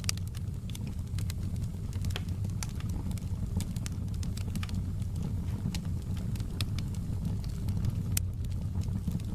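Wood fire in a fireplace burning with a steady low rumble and frequent sharp, irregular crackles and pops, one louder pop near the end.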